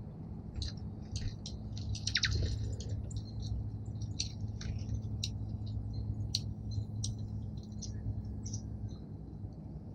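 Small songbirds at a feeder chirping: a scatter of short, high chirps, with a quick flurry of chirps about two seconds in.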